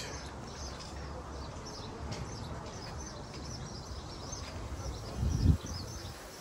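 Small birds chirping repeatedly over a low rumble, with a dull thump about five seconds in.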